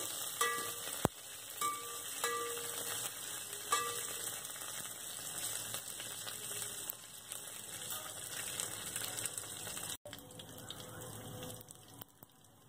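Garlic, curry leaves and green chillies sizzling in hot oil in an aluminium pot as a steady hiss, with a ladle clinking against the pot a few times early on. The sizzle breaks off about ten seconds in and is quieter after.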